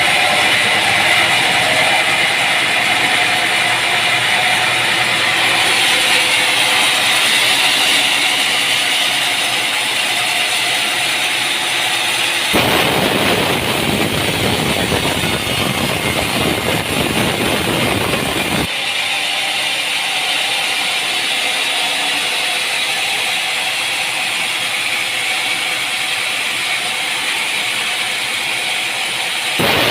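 Sawmill machinery running steadily with a continuous mechanical rattle. From about 12 to 19 seconds in, a deeper, coarser noise joins it, then drops away.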